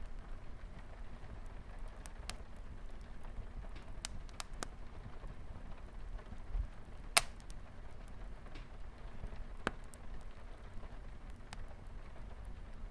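Wood fire crackling in a fireplace, scattered sharp pops over a steady low rumble, one pop much louder than the rest about seven seconds in, with light rain pattering on a window behind it.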